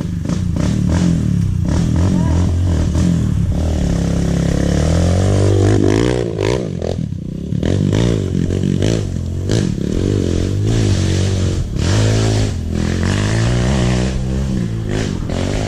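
Dirt bike engine revved up and down over and over, its pitch rising and falling every second or two, with frequent clattering knocks throughout.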